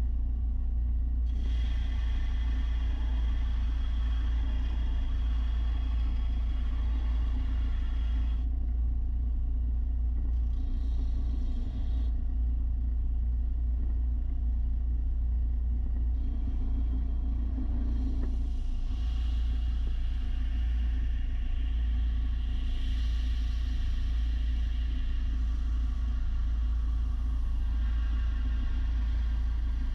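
Belt sander with 300-grit paper running steadily while a steel mower blade is ground against it. Higher-pitched grinding comes in about a second in, breaks off near 8 seconds, returns briefly, then runs again from about halfway on.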